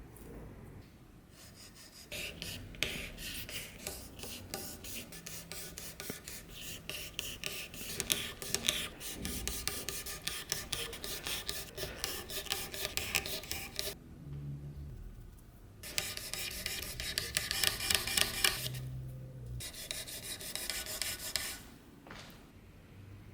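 Rusty steel being sanded by hand with sandpaper, in quick back-and-forth strokes. It comes in two runs with a short pause near the middle.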